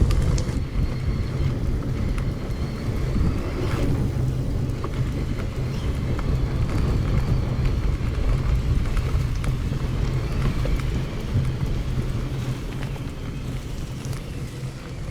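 Wind buffeting the microphone and mountain bike tyres rolling over a gravel forest road, a steady rumble with scattered small clicks, sped up to double speed.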